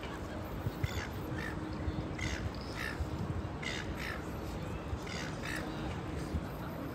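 A bird calling: a string of short cries, many coming in pairs, over a low steady background rumble.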